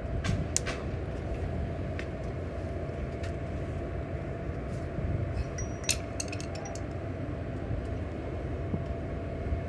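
A steady low mechanical rumble, like a running engine or machine, with scattered sharp metallic clinks and taps, the sharpest about six seconds in.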